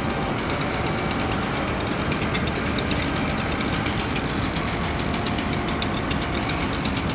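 An engine runs steadily with a fast, even clatter of small knocks.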